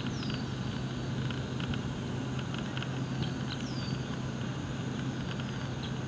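Steady low background hum with short, high bird calls that fall in pitch, one right at the start and another about three and a half seconds in, over faint scattered chirps.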